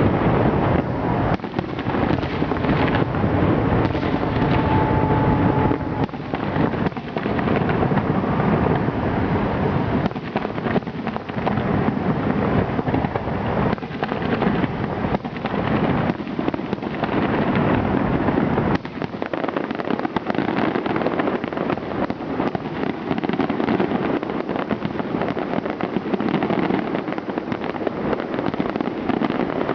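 Fireworks display: a dense, continuous run of overlapping bangs and crackling bursts. A deep rumble thins out about two-thirds of the way through.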